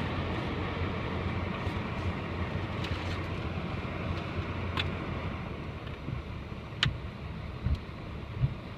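Car wash dryer blowers giving a steady rush of air that slowly fades, then a few sharp clicks and low thumps from about six seconds in.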